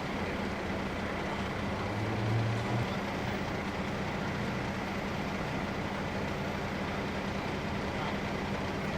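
A large vehicle's engine idling steadily, with a brief louder low hum about two seconds in.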